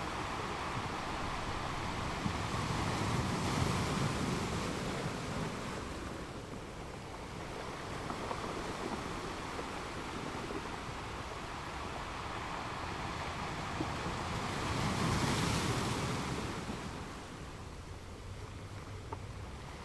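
Atlantic Ocean surf washing onto a beach. Two waves build and break, the first about four seconds in and the louder one about fifteen seconds in, with a steady hiss of surf between them.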